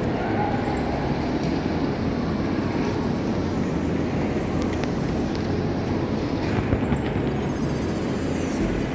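Steady din of a busy railway station hall with train noise, and a few brief knocks just before seven seconds in.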